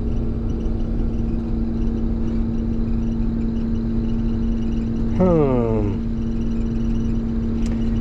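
Combine running steadily with a constant droning hum. A brief falling tone comes about five seconds in.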